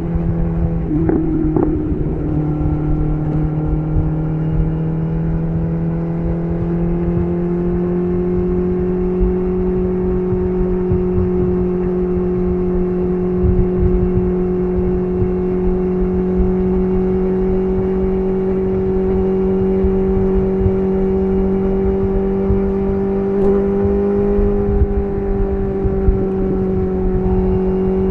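BMW S1000RR inline-four running at a steady cruise through an SC Project CR-T titanium exhaust. The engine note holds almost constant, creeping up slightly about a quarter of the way in and easing a little near the end, over low wind and road rumble.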